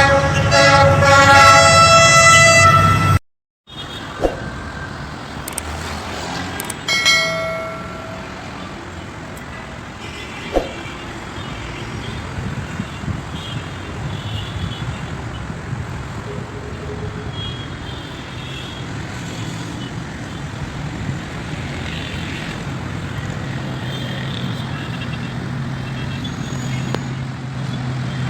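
GE diesel-electric locomotive's air horn sounding loudly, several notes at once, for about three seconds before it cuts off abruptly. A short second horn blast follows a few seconds later. After that comes the steady running noise of the train, with scattered clicks and a low steady engine tone in the last few seconds.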